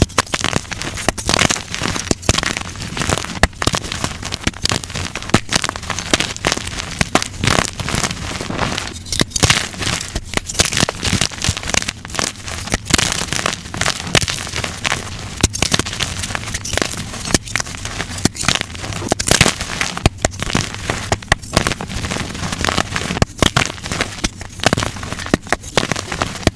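Blocks of dyed gym chalk crushed by hand, snapping and crunching into crumbly powder in a dense, continuous run of sharp cracks and crackles.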